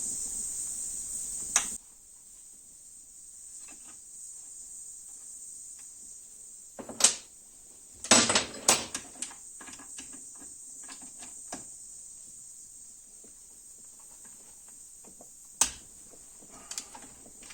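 Scattered metallic clicks and knocks of hand tools working on a Honda CB750 engine's crankcase bolts, a few at a time with quiet gaps between. The sharpest knocks come about seven and eight seconds in.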